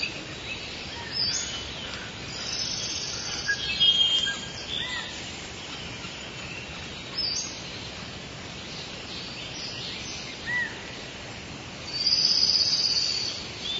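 Nature ambience with birds chirping: short, high calls come and go over a steady background hiss, with a denser run of chirps near the end.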